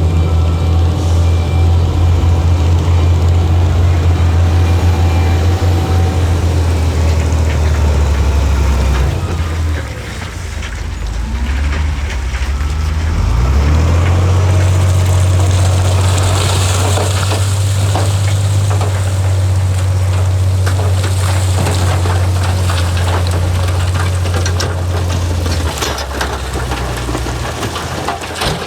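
Heavy diesel engine of earthmoving machinery running steadily. About nine seconds in it eases off, then revs back up a few seconds later and holds, with scattered clattering over it.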